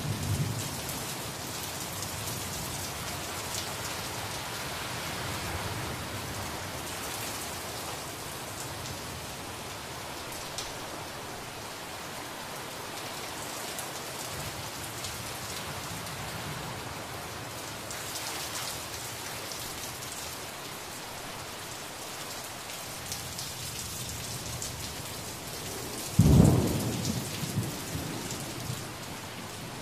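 Steady rain falling and pattering on a surface. Near the end a sudden loud low boom breaks in and dies away over a couple of seconds.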